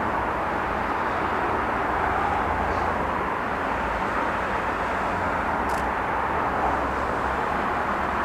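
Steady, even rushing noise of a Boeing 787 airliner's jet engines, heard from a distance.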